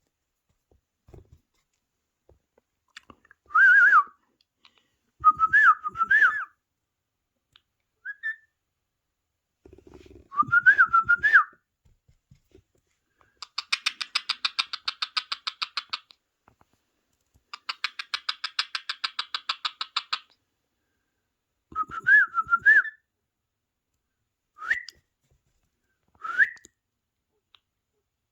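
Pet parrot whistling: short whistled calls, some rising sharply, spaced out with pauses, and two rapid pulsing trills of about two and a half seconds each in the middle.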